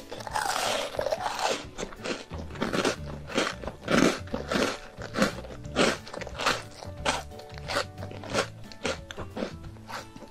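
Close-miked crunchy chewing of a chocolate-topped biscuit: a dense crackle of crunching in the first second or so, then steady rhythmic crunches about twice a second as it is chewed down. Background music plays underneath.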